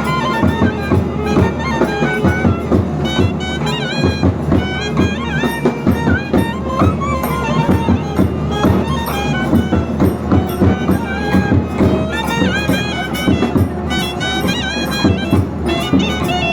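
Temple nadaswaram and thavil music: a double-reed nadaswaram plays an ornamented, gliding melody over fast, steady thavil drumming.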